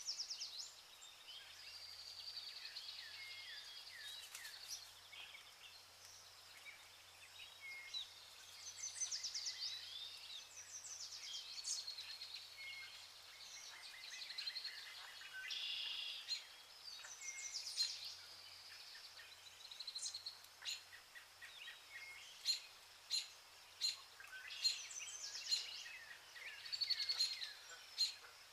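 A chorus of birds chirping and trilling, many short high calls overlapping. In the last third, sharper single chirps stand out about once a second.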